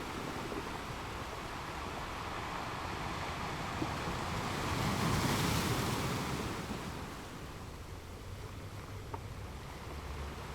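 Ocean surf breaking on rocks: a steady wash of water with one wave building and crashing about halfway through, then easing off.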